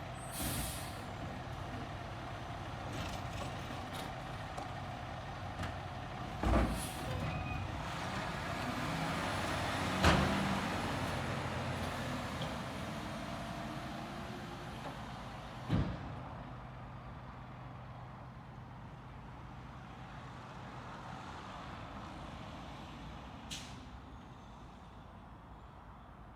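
Garbage truck engine running steadily, with several sharp loud bangs from the truck at work, the loudest about ten seconds in.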